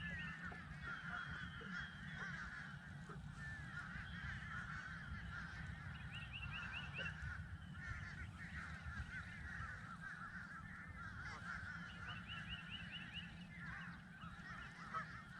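A flock of waterfowl calling continuously, many overlapping honking calls, with short runs of higher notes every few seconds, over a low steady hum.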